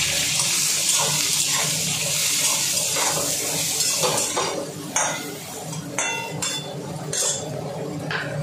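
Eggplant pieces sizzling in hot oil in an aluminium kadai while a metal spatula stirs them. The sizzle dies down about halfway through, leaving several sharp clinks and scrapes of the spatula against the pan.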